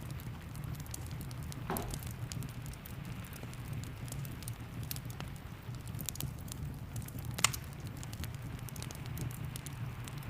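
Wood fire crackling with frequent small snaps and one louder pop about seven and a half seconds in, over a steady patter of rain and a low rumble.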